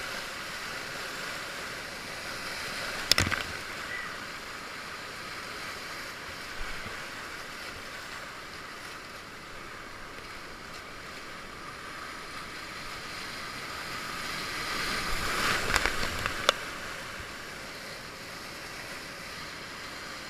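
Whitewater river rapids rushing steadily, with a sharp knock about three seconds in and a louder stretch of splashing with a few sharp knocks near the sixteen-second mark.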